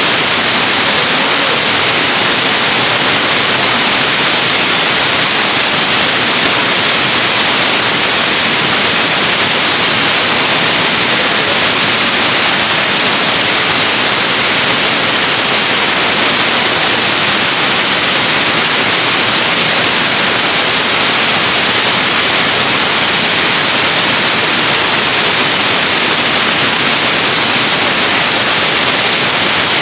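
Waterfall rushing, a loud steady hiss of falling water with no pauses.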